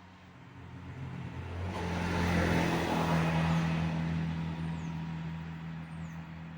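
A motor vehicle's engine growing louder over about two seconds and then running on steadily with a low hum. A few faint, short descending high chirps come late on.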